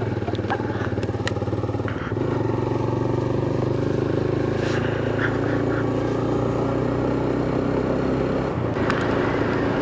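Motorcycle engine running at a steady road speed under the rider, its pitch stepping slightly about two seconds in and again near the end, with a few light rattles.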